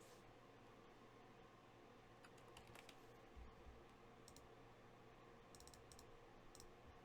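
Near silence: room tone with a few faint, sharp clicks scattered through it.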